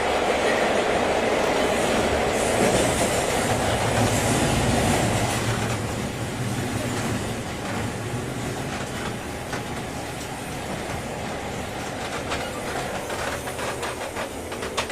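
Running noise heard inside a 201-series electric train car. The loud rolling noise drops about five seconds in as the train slows for a station, and the wheels go on clacking over rail joints.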